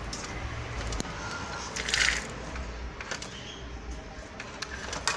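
Motorized bicycle's clutch shaft being turned by hand with the clutch plate off, giving a low rumbling grind with a few clicks and a short scrape. The sound comes from a broken bearing on the clutch shaft that catches as it turns.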